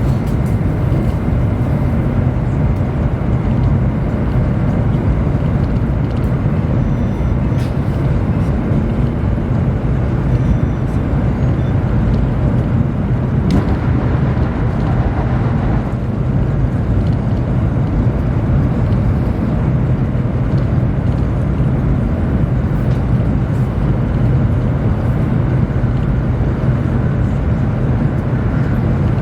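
Steady rumble and hum of a Chinese high-speed train running at speed, heard from inside the passenger cabin.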